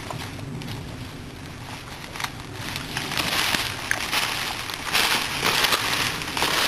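Rustling and crackling of dry leaf litter and brush under people moving through forest undergrowth, with scattered snaps of twigs. It grows louder from about halfway through.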